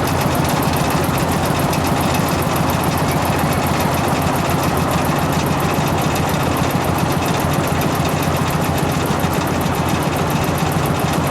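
A train running steadily, a continuous mechanical rumble and hum with a fast, even clatter.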